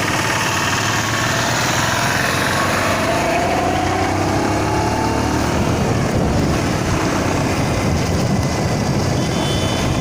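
Motor vehicle engine running amid steady traffic and road noise. An engine note rises in pitch a few seconds in.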